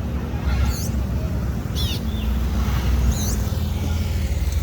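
A bird giving short, sharp chirps, each a quick sweep in pitch, about once a second, over a steady low rumble.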